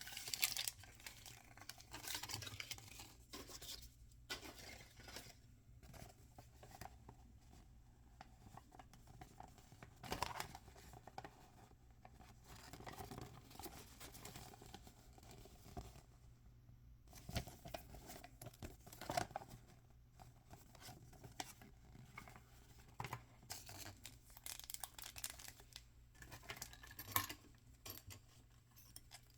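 Toy packaging being torn open and crinkled by hand, in irregular rustles and sharp crackles.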